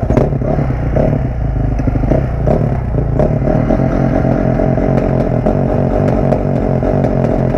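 Dirt bike engine running while being ridden, with occasional sharp clicks and clatter over it.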